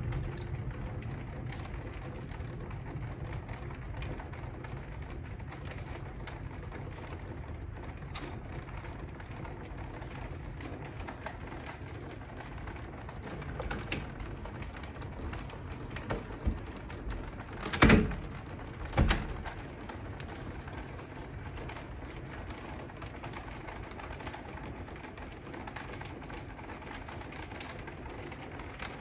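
Bengalese finches calling and chirping over a steady hiss of rain. Two sharp knocks about a second apart come roughly two-thirds of the way through.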